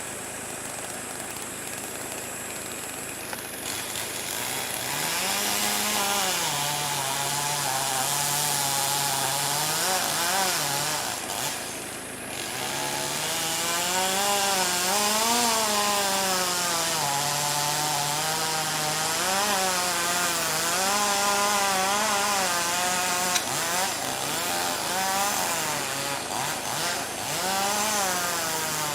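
Chainsaw running, its engine pitch rising and falling over and over as it revs and bogs down in the cut. It drops briefly about twelve seconds in, then picks up again.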